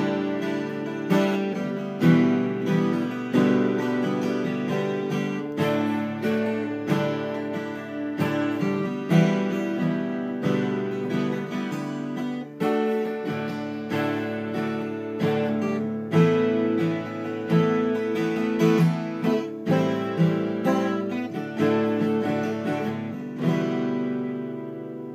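Seagull S12 twelve-string acoustic guitar strummed in drop D tuning, a chord progression of repeated strokes. Near the end a last chord rings out and fades.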